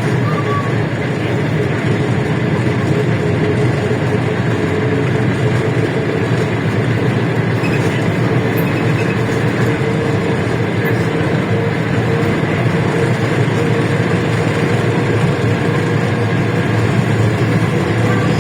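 Interior noise of a LiAZ-677M city bus under way: its V8 petrol engine runs steadily under the low rumble of the road and body, with a steady whine over it.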